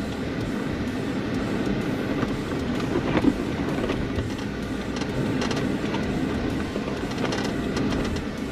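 Four-wheel-drive vehicle driving slowly over a rough dirt trail: a steady rumble from engine and tyres, with scattered knocks and rattles as it goes over the bumps.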